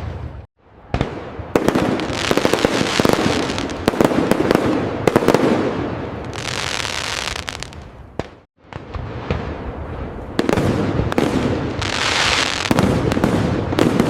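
Fireworks display: a dense run of sharp cracks and pops from bursting shells, with hissing crackle bursts, broken by two brief near-silent gaps about half a second in and again about eight and a half seconds in.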